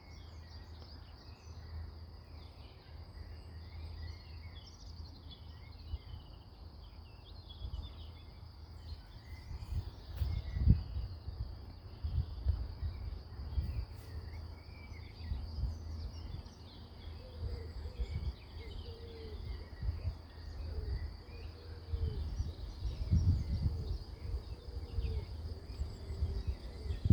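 Rural outdoor ambience: insects trill steadily while birds chirp here and there. From about ten seconds in, bursts of low rumble come and go and grow stronger near the end.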